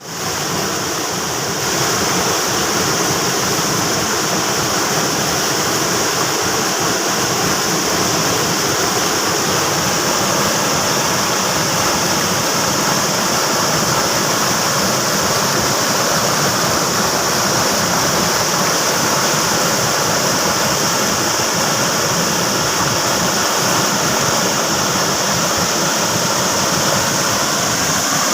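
Floodwater flowing fast in a steady, loud rush, growing a little louder about two seconds in.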